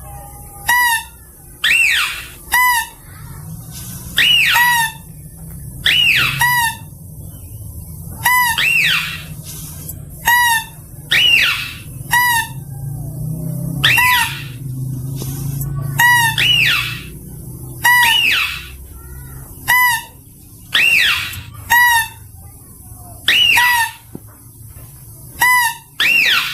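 Lesser mouse-deer (kancil) calling over and over, about every two seconds. Each call is a high squeal sliding down in pitch, followed by one or two short shrill notes. This is the call used to lure mouse-deer. A low hum sits underneath, strongest in the middle.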